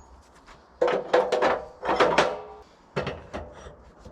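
A run of sharp wooden knocks and clatters, several in quick succession, each with a short ringing tail, as pieces are set and knocked about on a portable sawmill's bed.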